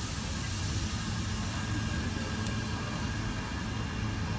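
Intermodal container freight train rolling past, a steady low rumble from the wagons with no single loud event.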